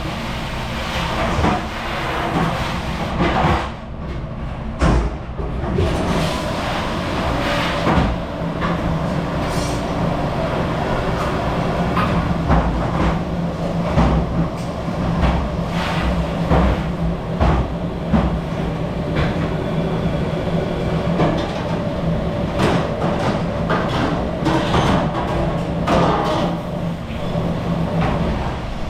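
Commercial dishwashing machine running with a steady hum, with dishes and racks clattering and knocking throughout.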